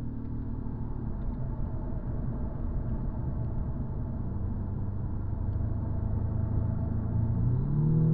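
Audi S3's turbocharged four-cylinder engine and road rumble heard from inside the cabin through a corner. Near the end the engine note rises sharply as the car accelerates onto the straight.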